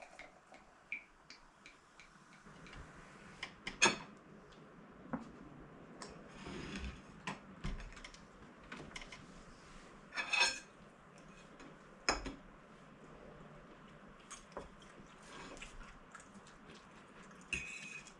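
Scattered light clinks and clatter of dishes and cutlery, a few of them ringing briefly, the loudest about four, ten and twelve seconds in.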